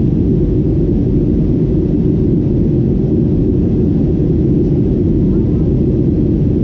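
Steady, loud, low cabin roar of a Boeing 737-800 in flight, from its CFM56 jet engines and the airflow over the fuselage, with no change in pitch or level.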